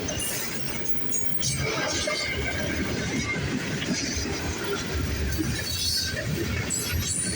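Freight train cars rolling past: a steady rumble of wheels on rail, with brief high metallic squeals and clinks here and there.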